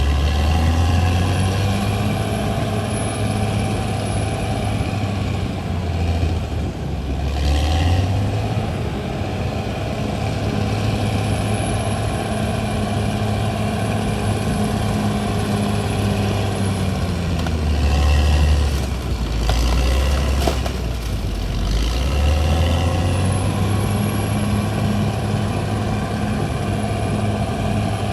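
CAT D6R XL bulldozer's diesel engine running under working load, its note dropping and recovering a few times as the machine is loaded and eased off.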